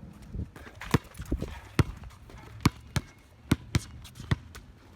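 Basketball being dribbled on a hard court, about eight sharp bounces at an uneven pace.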